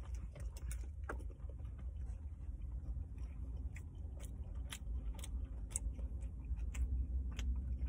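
A person chewing a mouthful of breakfast sandwich with her mouth closed: soft, irregular mouth clicks and smacks over a low, steady hum.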